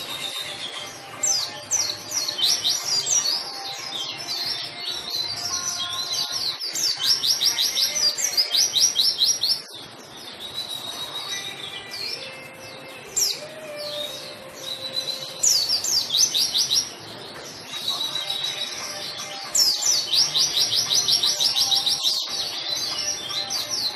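White-eye (pleci) singing vigorously: rapid, high chattering trills in quick bursts, one after another, with brief lulls about ten seconds in and again a little later.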